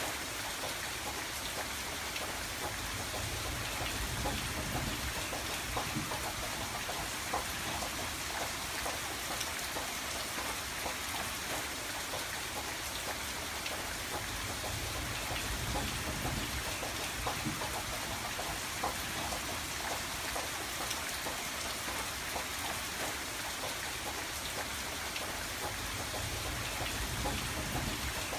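Rain falling on a window: a steady hiss full of small drop ticks, over a low rumble that swells and fades now and then.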